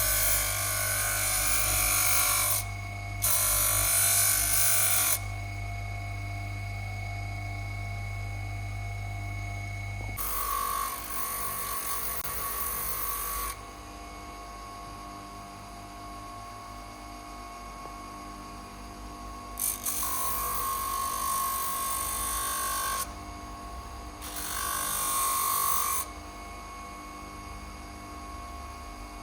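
A small handheld power tool running in about five short bursts of one to three seconds each, with a hissing, high-pitched working noise and quieter pauses in between.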